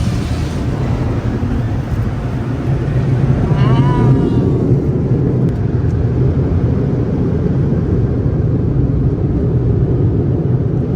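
Automatic car wash machinery running, a loud steady rumble heard from inside the car, with a short wavering whine about four seconds in.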